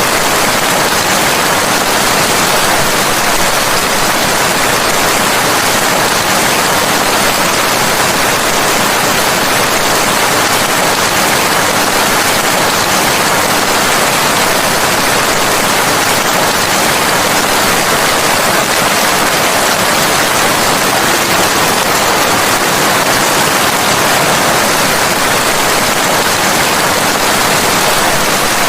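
Rain falling steadily: a dense, even hiss that does not change, with no separate drops, thunder or other events standing out.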